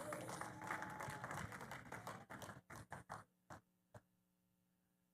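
Scattered hand clapping from a congregation that thins out to a few last claps and stops about four seconds in.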